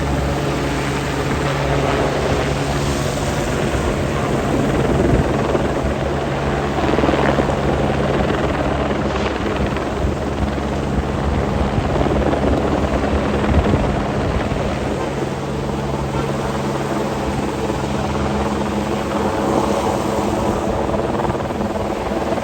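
Helicopter hovering overhead, a steady engine-and-rotor drone, over the hiss of heavy rain.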